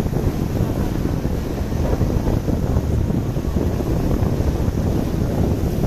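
Wind buffeting the microphone aboard a moving tour boat, over a steady low rumble.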